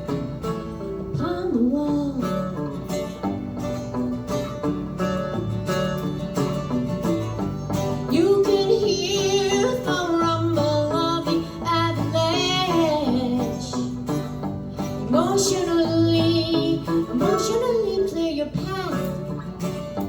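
Live acoustic song: picked acoustic guitar playing steadily, with a singer's voice coming in about eight seconds in, singing long held, wavering notes in two phrases.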